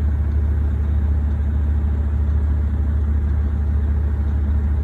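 Volvo 780 semi truck's diesel engine idling steadily, a deep even hum heard from inside the cab.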